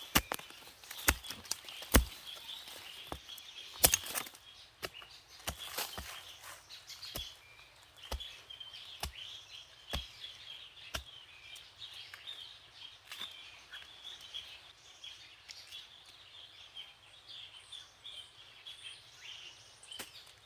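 Outdoor rural ambience with continuous high chirping. A series of sharp knocks, about one a second, runs through roughly the first half and then stops.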